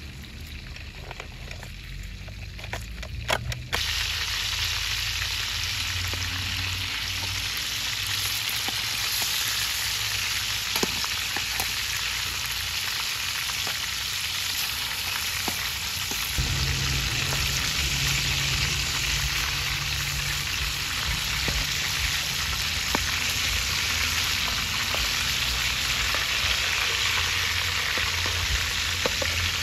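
Chicken pieces frying in hot oil in a wide aluminium pan: a steady sizzle that starts about four seconds in, after a few quieter seconds with some light clicks. Occasional short clicks of a metal spoon against the pan come through the sizzle as oil is spooned over the chicken.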